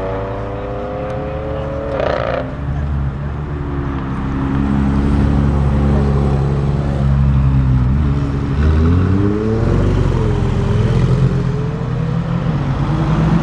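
Lamborghini Huracan STO's naturally aspirated V10 engine running at low revs, its pitch holding steady for long stretches and dipping and rising a few times, with a brief rasp about two seconds in.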